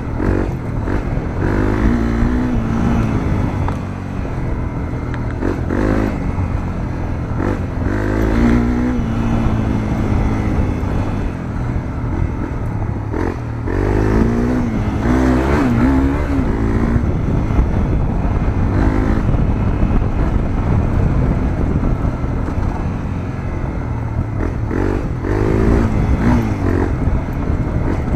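Honda CRF250L's single-cylinder four-stroke engine through a Moriwaki aftermarket muffler, heard onboard while riding: the engine note rises and falls again and again as the throttle opens and closes through the gears, over a steady low rumble.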